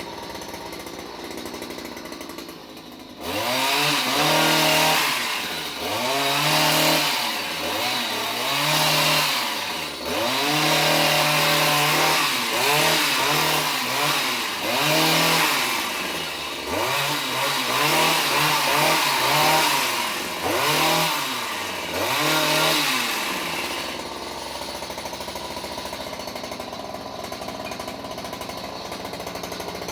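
Two-stroke chainsaw running at idle, then revved hard again and again for about twenty seconds as it cuts into the tree, its pitch climbing and dropping with each rev, before it settles back to idle.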